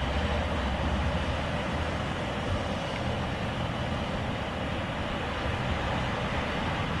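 Freight train of a BNSF grain train rolling past, a steady noise of wheels on the rails.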